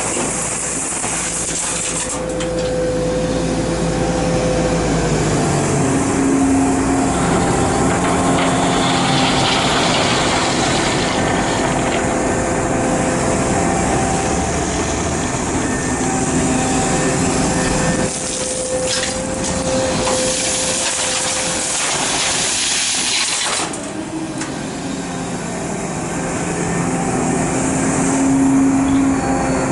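Large excavator's diesel engine running under working load, its pitch shifting several times as the machine digs and swings, over a steady high hiss.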